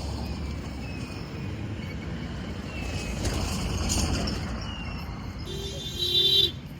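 Steady low rumble of a running motor vehicle, with a horn honking for about a second near the end.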